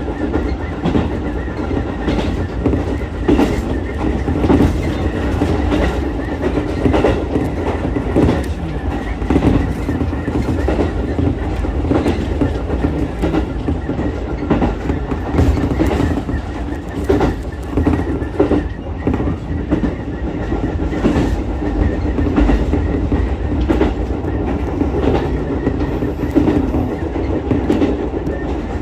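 Ichibata Electric Railway 7000-series railcar running along the line, heard from inside the car: a steady rumble with irregular clicks and knocks of the wheels over the rail joints.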